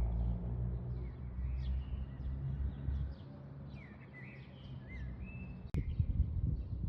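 Small birds chirping and calling in short, repeated whistles over a steady low rumble, with a single sharp click near the end.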